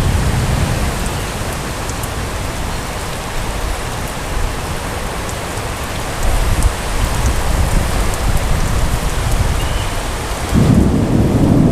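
Heavy rain falling steadily during a thunderstorm, with thunder rumbling low underneath. A louder deep rumble sets in near the end.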